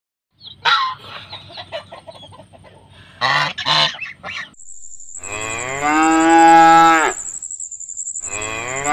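Two short honks from waterfowl, then a cow mooing in one long call of about two seconds, with the next moo starting near the end.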